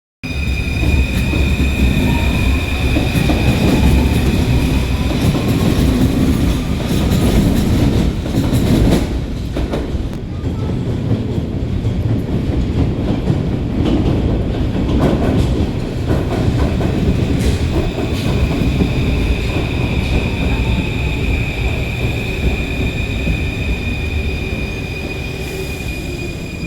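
Paris Métro train running on the rails: a continuous heavy rumble with a steady high-pitched tone at the start and again through the last third, faint rising whine in the first few seconds, and a few sharp clicks about nine seconds in.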